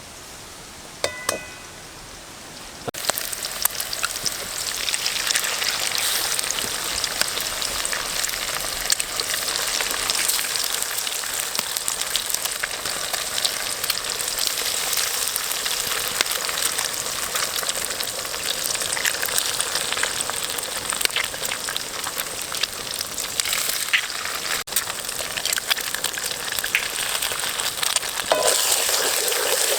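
Food frying and sizzling, a dense steady crackle that starts about three seconds in after a couple of light clinks.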